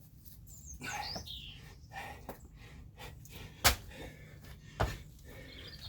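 Two sharp thuds of a body landing on the floor during burpees, about a second apart, a little past halfway through. A bird chirps briefly near the start.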